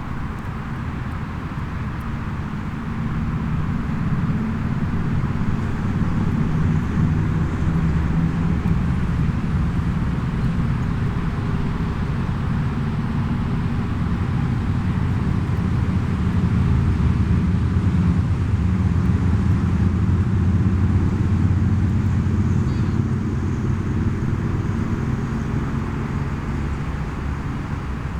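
Low engine rumble of a distant motor vehicle that swells over several seconds, is loudest about two-thirds of the way through, then eases off, over a steady outdoor hiss.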